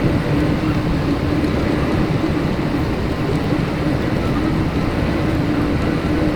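Tractor engine and baler running steadily while baling straw.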